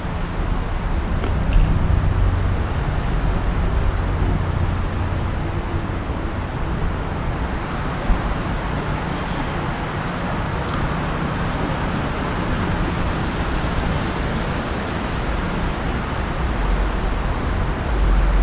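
Steady city street noise: traffic rumble with a low hum underneath and a few faint clicks.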